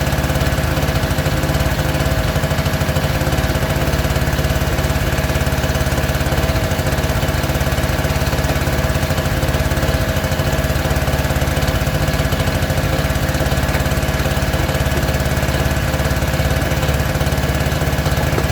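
An engine running steadily at one constant speed, with an even low pulsing.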